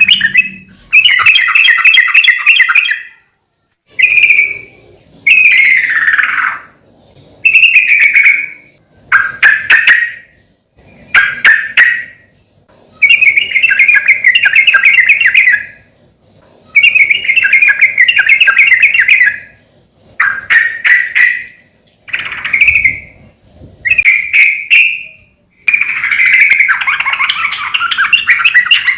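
Yellow-vented bulbul singing loudly and close, a string of short chattering phrases each a second or two long with brief pauses between them.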